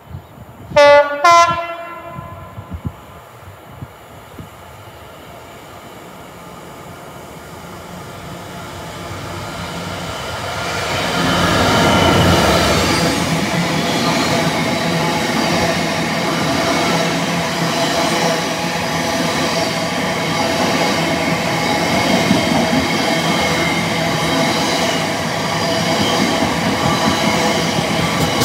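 Diesel freight locomotive sounding two short blasts on its two-tone horn, a high note then a low one, as it approaches. The train then grows louder and runs through at speed, its engine and wheels followed by a long rake of loaded tank wagons rolling by with a steady rail rumble.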